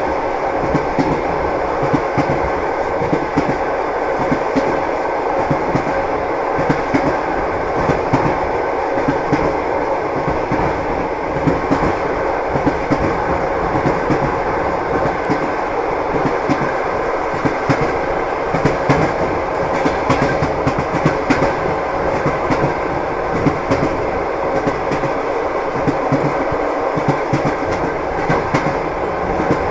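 Train wheels knocking over rail joints: a steady rolling rumble with a continuous clickety-clack of frequent, uneven knocks.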